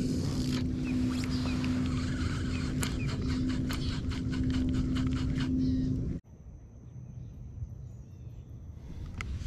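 A steady mechanical hum with a run of rapid, even clicks, cut off abruptly about six seconds in, leaving faint background with a thin high whine.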